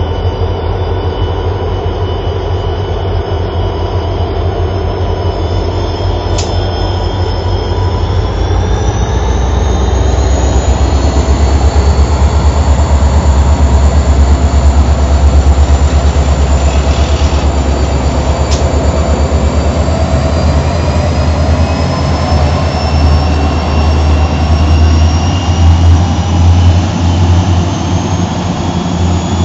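Diesel-electric freight locomotives running with a deep throbbing engine note, then revving up: about eight seconds in, the engine pitch rises and the sound grows louder, and it keeps climbing slowly later on as they power up.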